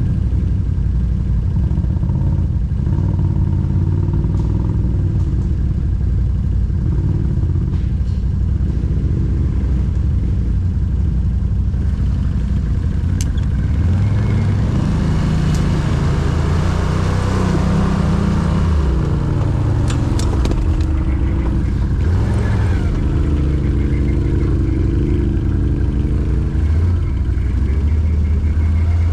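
ATV engine running under changing throttle, its pitch rising and falling. Clattering and scraping noises come in about halfway through.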